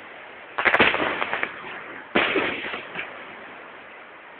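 Fireworks going off: two sharp bangs about a second and a half apart, each followed by a crackle of smaller pops that dies away over about a second.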